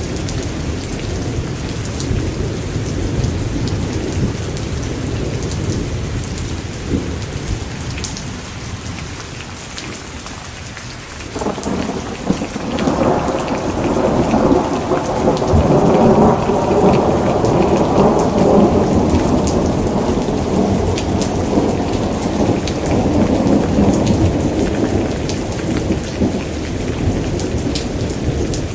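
Steady rain with rolling thunder. An earlier low rumble dies away over the first ten seconds; then, about eleven seconds in, a new peal sets in suddenly, swells into a long rumble and slowly fades over the next fifteen seconds.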